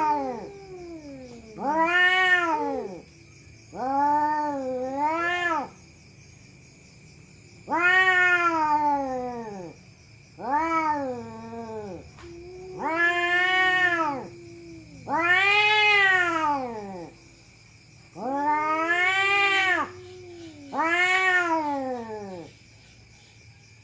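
Domestic cat yowling: a series of long, drawn-out wails, each rising then falling in pitch, repeated about every two to three seconds, with a faint steady high-pitched tone underneath.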